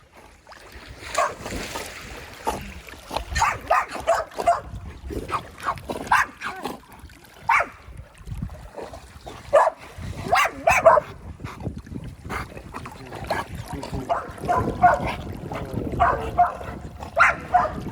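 Dogs yipping, whining and barking over and over, short pitched calls coming every second or so, over the sound of water splashing in the pool.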